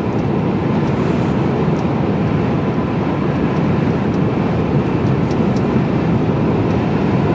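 Steady engine and road noise inside the cab of a moving Mercedes-Benz Actros lorry.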